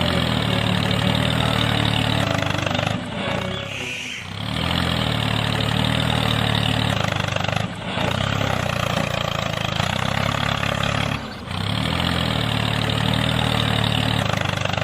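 An engine running steadily with a low, even hum, dipping briefly a few times.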